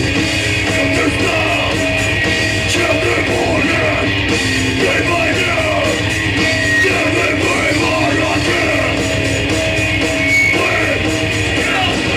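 Hardcore punk band playing live: loud, continuous full-band music with shouted vocals.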